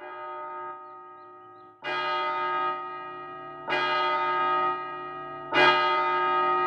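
A large bell tolling four times, about two seconds apart, each stroke ringing on and fading, the first one softer.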